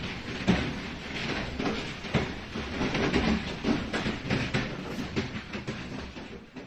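Hailstones striking a hard surface in a dense, irregular clatter of knocks, fading out near the end.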